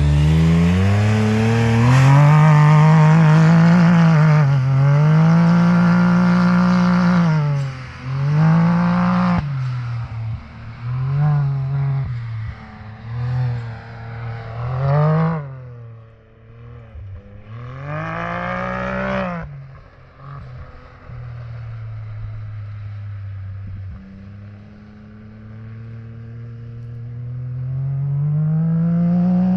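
Can-Am Maverick X3's turbocharged three-cylinder engine through a Treal aftermarket exhaust, opened up in repeated bursts of throttle. Each burst climbs in pitch, holds, then drops away. The loudest pull is in the first several seconds, followed by shorter surges, a lower steady stretch, and a gradual climb again near the end.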